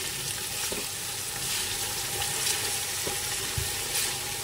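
Blended lemongrass paste frying in hot oil in a large aluminium pot: a steady sizzle, with a few light knocks as a spatula stirs it.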